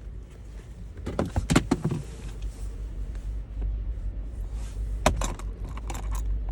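Cabin air filters being handled: two clusters of short clicks and rustles, about a second in and again about five seconds in, over a steady low rumble.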